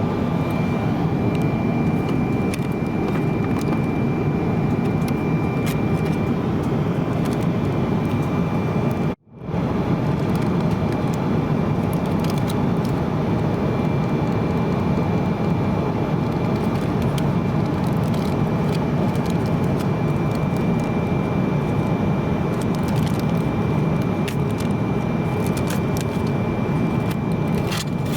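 Steady rumble and airflow noise inside a Boeing 777-200 airliner cabin, with a faint steady high whine and small scattered clicks. The sound drops out abruptly about nine seconds in and fades back in at once.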